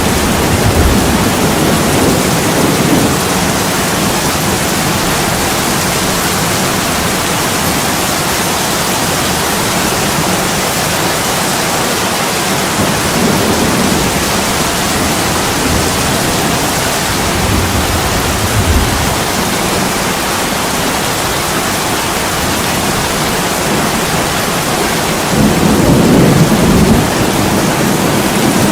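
Heavy rain pouring steadily on a window, with low rolls of thunder rumbling up several times, the loudest near the end.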